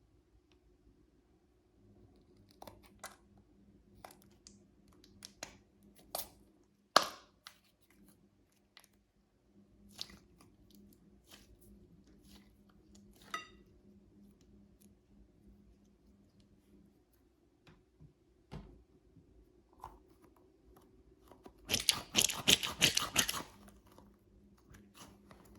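Stress toy being cut open and handled: scattered sharp snips and clicks, one of them sharper about seven seconds in, then a dense crackly crunching for about a second and a half near the end.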